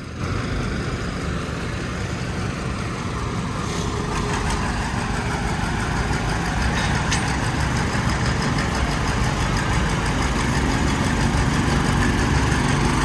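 Classic tractor engines running as the tractors pull out and get under way, the sound growing gradually louder.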